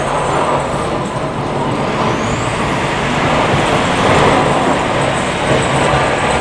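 Snow plow truck working the street: a loud, steady rumble and roar of engine and road noise, with a faint high whine rising about two seconds in.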